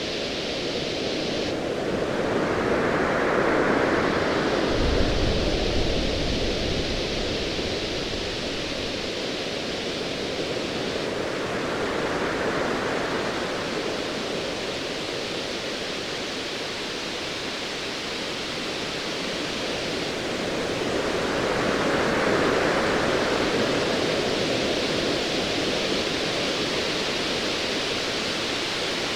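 Ocean waves on a rough sea as a steady wash of surf that swells and recedes three times. A brief low rumble of distant thunder comes about five seconds in.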